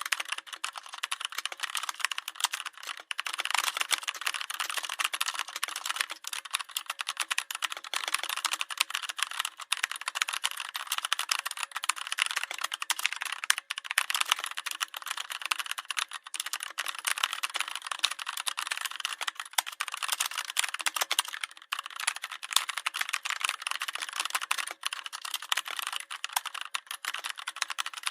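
Domestic sewing machine running steadily, its mechanism giving a fast, continuous clatter over a faint steady hum.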